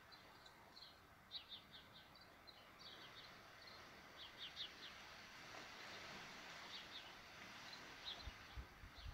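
Faint chirping of small birds, short high chirps in quick little clusters over a quiet outdoor hush, with a few soft low bumps near the end.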